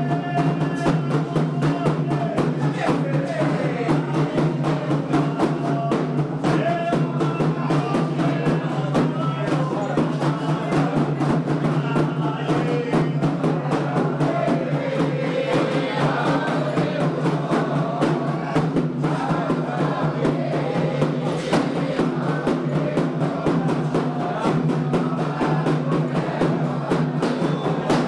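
Candomblé ritual music for Xangô: atabaque hand drums playing a steady, dense rhythm, with voices singing over them.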